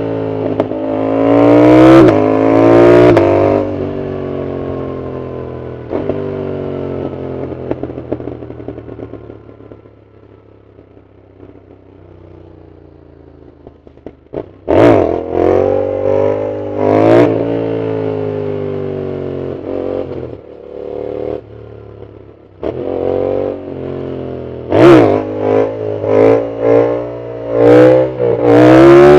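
Yamaha MT-07's parallel-twin engine through a full aftermarket exhaust, accelerating hard with the pitch climbing through the gears, then falling away as it slows and settling lower for a while. It pulls hard again about halfway through, and near the end comes a run of short, sharp revs with loud cracks.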